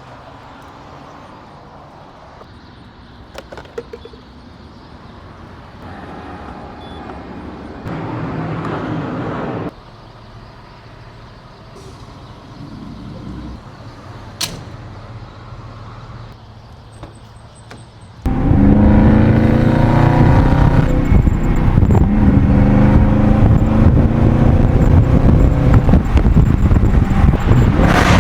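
Car engine sounds in short cuts: quieter engine and street noise for the first two-thirds, then a sudden jump to a loud engine revving for the last ten seconds.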